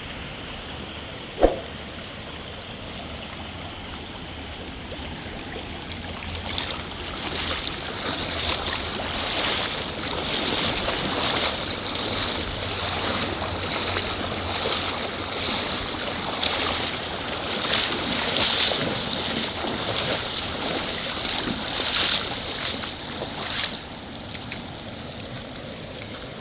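River water rushing. It grows louder and rougher through the middle and settles back near the end. A single sharp knock comes about a second and a half in.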